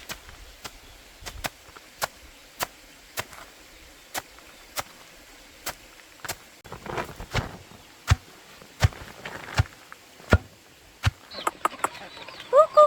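Repeated chopping strikes of a blade cutting banana stems for chicken feed, about one and a half a second. Near the end a chicken starts clucking in quick repeated notes.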